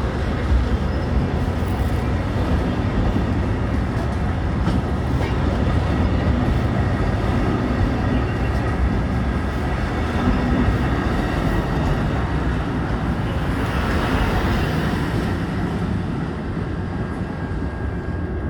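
Amtrak San Joaquins passenger train rolling past at steady speed: a continuous rumble of wheels on the rails.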